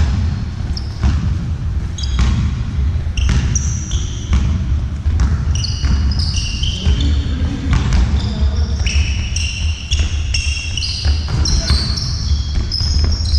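Ball game on an indoor court: a ball bouncing and thudding again and again, many short high squeaks of shoes on the floor, and players' voices in a large hall.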